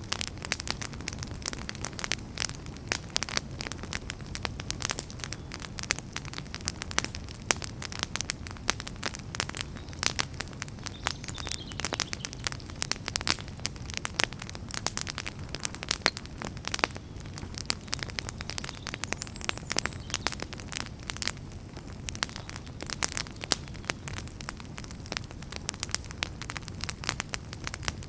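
Wood fire burning with a steady low rumble and many irregular sharp crackles and pops of burning firewood.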